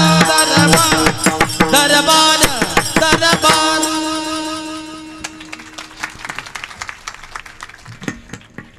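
Devotional kirtan music: a singer's wavering line ends about three and a half seconds in, leaving a held accompanying note and hand-drum strokes that fade away.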